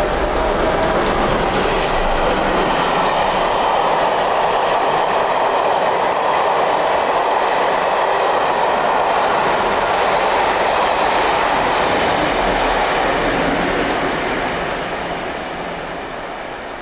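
A train passing close by: the carriages' wheels rolling along the rails in a loud steady rush that fades away near the end.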